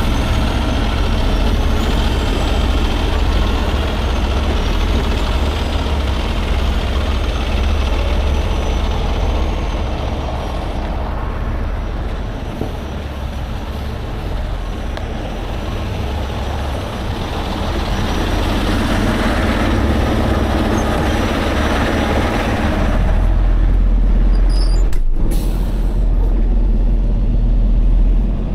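Heavy truck's diesel engine running steadily with a deep drone, its low end swelling louder about two-thirds of the way in, and a single sharp knock near the end.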